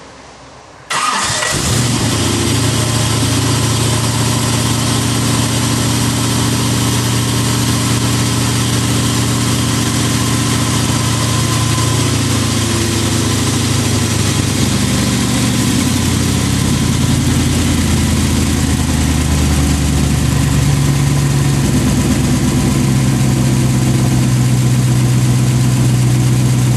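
Lamborghini Countach replica's engine catching suddenly about a second in and running on at a steady idle, its speed dipping and rising again around the middle. It starts after a no-start fault, with its fuel system freshly primed.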